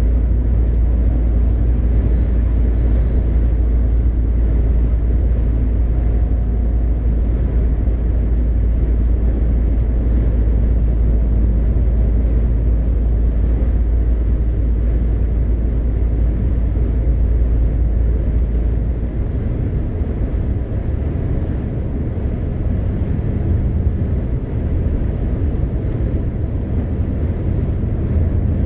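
MAN TGX 520 truck's straight-six diesel engine running with tyre and road rumble while driving, a steady low drone. About two-thirds of the way through, the deepest part of the rumble drops away and the sound shifts to a slightly higher drone.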